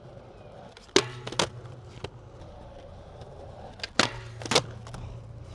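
Skateboard tail popping on concrete and the board slapping back down, in two pairs of sharp cracks about three seconds apart, with the wheels rolling between them.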